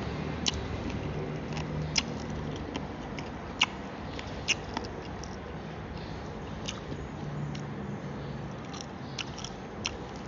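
Close-up chewing and biting of crispy deep-fried chicken feet: sharp crunches and crackles every second or so, with wet chewing between them.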